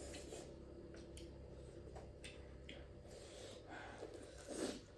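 Quiet eating sounds: a person chewing duck curry, with scattered small wet clicks and smacks and a louder one near the end.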